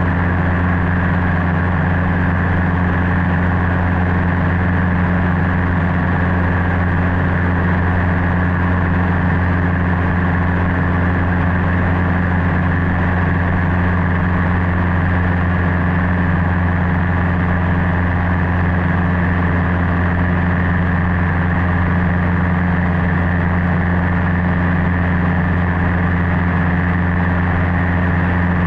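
Cessna 150's Continental O-200 four-cylinder engine and propeller running at a steady, unchanging drone in flight.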